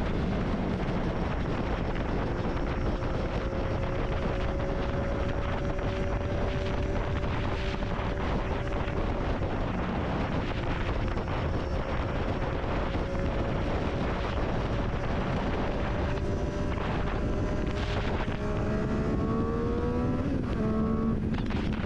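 Triumph Daytona 675 inline-three engine through an Akrapovic exhaust, running at a steady cruise with wind rushing over the microphone. Near the end the revs climb, then fall suddenly as it shifts gear.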